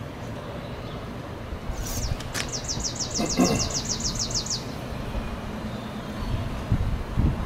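A bird's rapid high trill of about twenty quick notes, starting about two and a half seconds in and lasting two seconds, over a steady low outdoor rumble.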